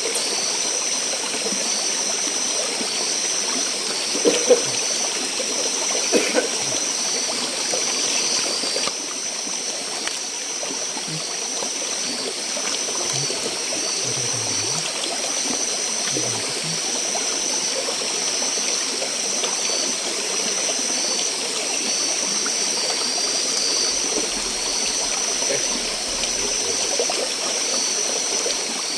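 Steady rush of a flowing forest stream, with a high, evenly pulsing tone above it. A couple of brief knocks come about four and six seconds in.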